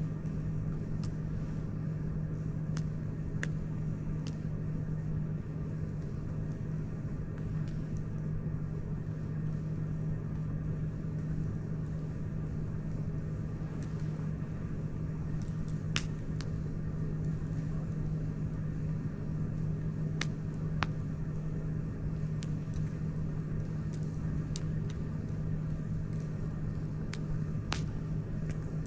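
Wood campfire crackling, with occasional sharp pops every few seconds over a steady low rumble.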